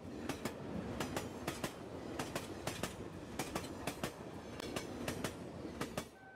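Train sound effect: rail cars rolling with wheels clacking over rail joints, about three sharp clacks a second, often in pairs, over a steady rumble that cuts off about six seconds in.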